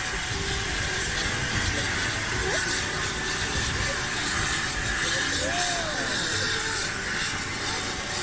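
Steam locomotive, a pannier tank engine, hissing steam steadily.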